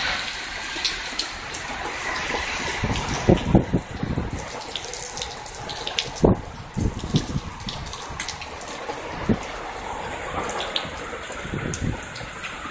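Heavy, pounding rain pouring onto a wet street: a steady rush of rain with scattered sharp drip taps close by, and a few louder thumps about three to four seconds in and again about six seconds in.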